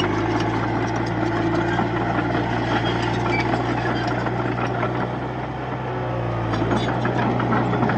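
Komatsu D31P bulldozer's diesel engine running steadily, easing off about five seconds in and picking up again, with a few short knocks near the end.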